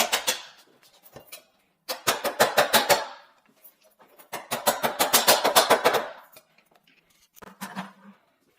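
Rapid runs of sharp knocks, about ten a second, in two bursts of a second or more each, with a shorter one near the end.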